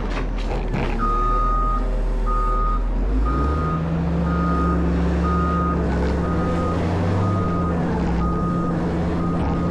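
Backup alarm of a Caterpillar 140M motor grader beeping about once a second as it reverses, over the steady drone of its diesel engine. The engine note shifts about three seconds in, and a few clanks are heard just before the beeping starts.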